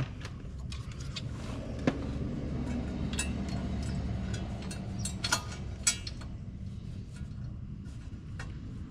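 Scattered metallic clicks and clinks of bolts and hand tools being worked into a bracket, over a steady low rumble.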